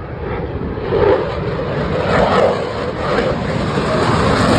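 Fighter jet engine noise at an airshow display: a loud, steady rushing that slowly grows louder as the jet flies.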